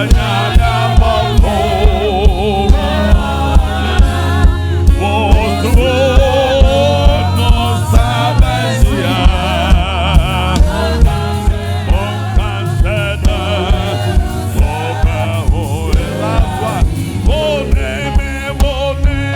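Gospel worship music: a group of voices singing a praise song over a band with a steady bass-drum beat, about two beats a second.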